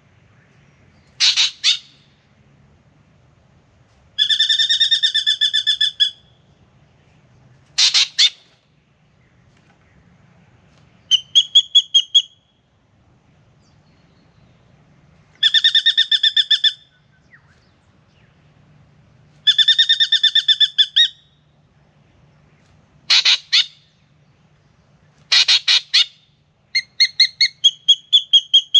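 Spangled drongo singing in about nine separate phrases a few seconds apart. The phrases mix drawn-out rattling notes, short harsh calls and quick runs of clipped notes.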